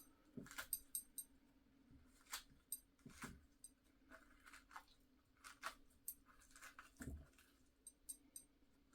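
Faint, irregular clicks and soft scrapes of a knife working the flesh of an orange away from the inside of the peel, over a faint steady hum.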